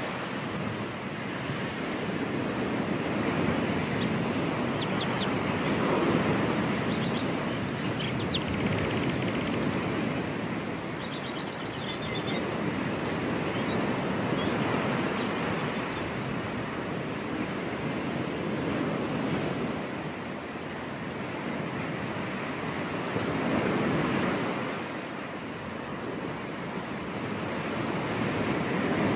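Ocean surf washing onto a beach, a continuous rush of waves that swells and eases every several seconds, with a few faint high chirps about a third of the way in.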